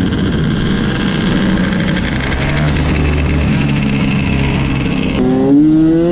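Motorcycle engine running, with a rev that rises in pitch about five seconds in.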